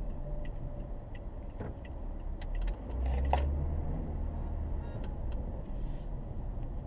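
Car cabin noise: a low engine and road rumble that swells for a couple of seconds midway, with a few light clicks and rattles.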